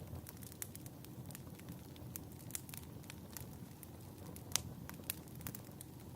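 Wood fire crackling in a fireplace: irregular small pops and snaps over a low steady rumble, with one louder pop about four and a half seconds in.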